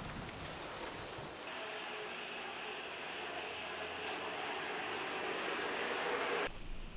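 A steady, high-pitched insect chorus of chirring that starts suddenly about a second and a half in and cuts off just before the end, over faint outdoor background noise.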